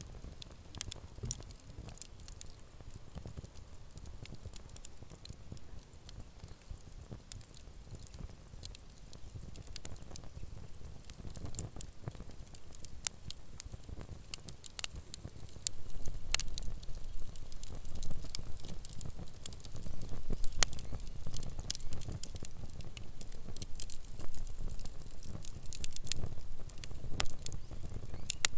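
Wood campfire crackling, with frequent sharp pops and snaps over a low rumble; it grows louder about halfway through.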